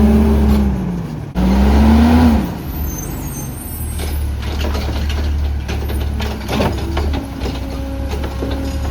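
CNG Autocar ACX garbage truck engine revving up and back down twice in the first couple of seconds, then running steadily.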